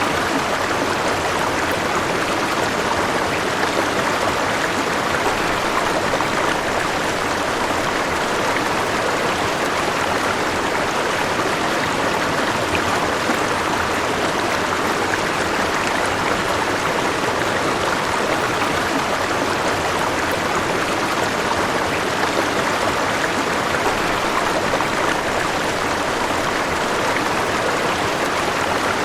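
River water flowing over rocks: a steady, unbroken rush.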